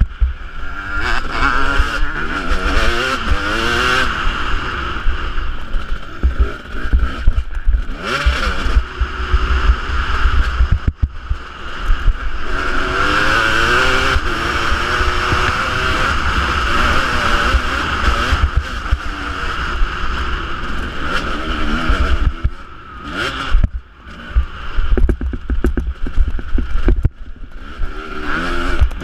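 Husqvarna 250 two-stroke motocross engine revving hard, its pitch climbing and dropping over and over as the throttle is worked. It cuts back briefly a few times, about 7, 11, 23 and 27 seconds in. Heavy wind buffeting on the microphone runs under it.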